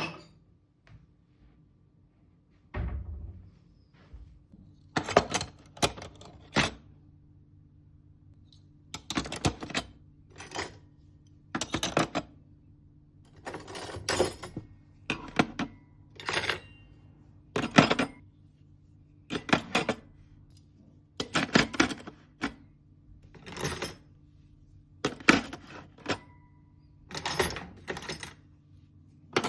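A series of short knocks and clinks, about one every second or two, some ringing briefly, as household objects are handled and set down. A faint steady hum runs underneath.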